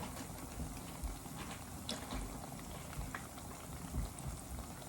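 Food cooking on the stove: a steady, quiet bubbling with a few faint clicks.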